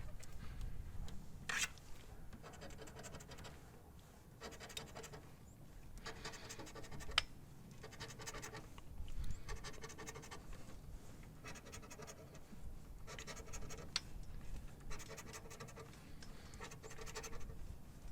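A scratch-off lottery ticket being scratched: short, repeated scraping strokes across the coating, each about a second long, with brief pauses between them.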